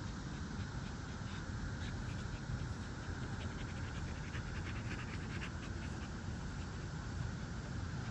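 American Bully dog panting steadily, worn out from play.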